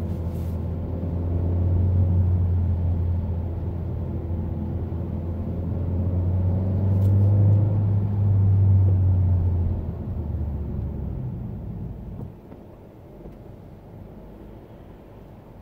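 Honda Accord's 1.5-litre turbocharged four-cylinder heard from inside the cabin as a low drone under acceleration, swelling about two seconds in and again around eight seconds. It falls away in two steps, about ten and twelve seconds in, leaving quieter road noise.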